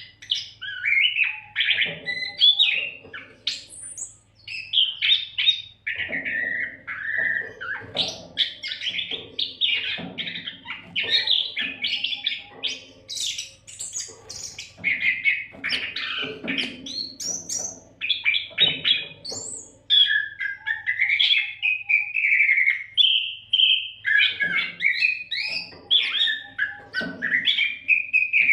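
Oriental magpie-robin (kacer) singing nonstop: a rapid, varied run of whistled glides, chirps and harsher notes with only brief pauses. A faint steady low hum lies underneath.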